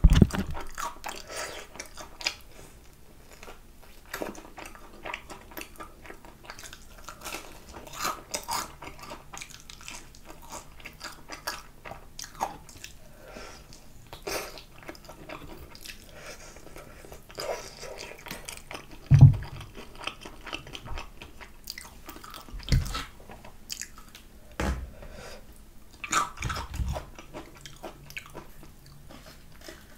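Close-up eating sounds of crispy fried chicken drumsticks: crunching bites through the battered skin and wet chewing, with many small crackles throughout. A few louder low thumps come in the second half.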